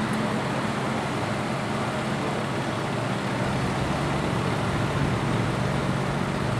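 Ferrari 458 Italia's 4.5-litre V8 idling steadily, an even low hum with no revving.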